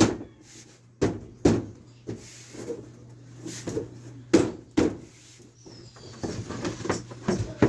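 About half a dozen sharp knocks of carpentry work on wood, irregularly spaced, with a few lighter taps between them.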